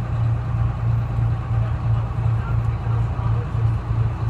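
Detroit Diesel Series 71 engine of a 1970-71 GMC New Look bus running with a steady low drone that throbs a few times a second.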